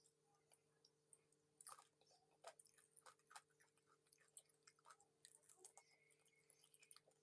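Close-miked chewing of cooked chicken feet: faint, irregular wet clicks and small crunches of skin and cartilage in the mouth.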